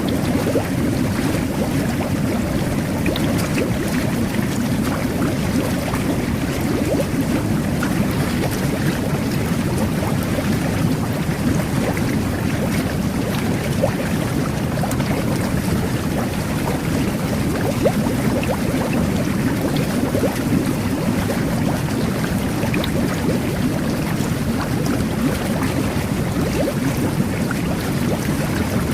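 Jet bath running: water jets and bubbles churning steadily in the tub, with a fine crackle of bursting bubbles.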